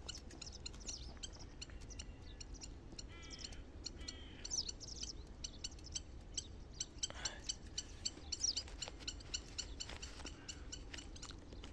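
Small birds chirping in the open fields: a steady run of short, high chirps, with a couple of harsher, fuller calls a few seconds in.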